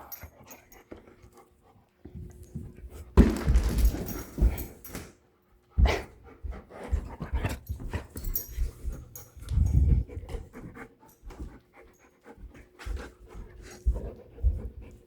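A puppy panting as she plays with a ball, with irregular rustles and soft thumps.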